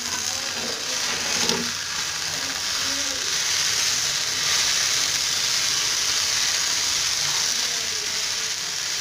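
Chopped okra frying in coconut oil in an open kadai: a steady sizzle, with a light knock about a second and a half in.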